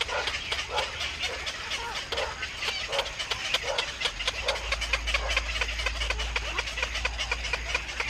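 Birds giving a rapid, continuous chatter of short, clicking calls, several a second. A low rumble grows stronger about halfway through.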